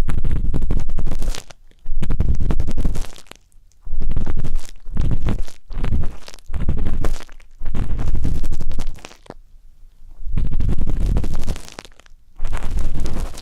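Ear-pick tip scraping and rubbing inside a binaural microphone's ear in slow strokes, about eight in a row. Each stroke is a loud, muffled, scratchy rumble lasting a second or so, with brief pauses between.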